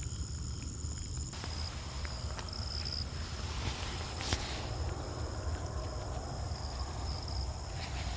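Insects trilling steadily in high thin tones, with a low rumble underneath and a brief rush of noise about four seconds in.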